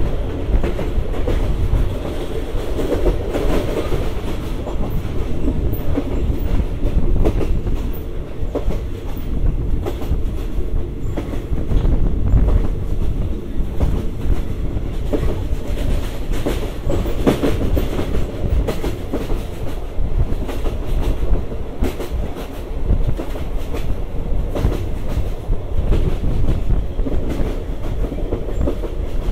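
Moving State Railway of Thailand passenger train: a steady rumble of wheels on rail with a continual clatter of clicks and knocks as the wheels run over the track.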